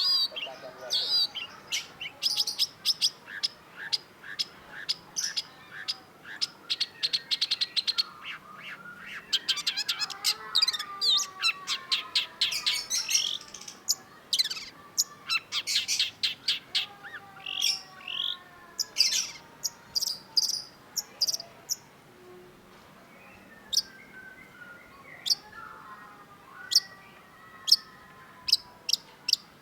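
Long-tailed shrike singing: fast runs of sharp, chattering notes and trills, with falling whistled notes mixed in lower down. The song is dense through the first part and becomes sparser, more scattered notes from about two-thirds of the way in.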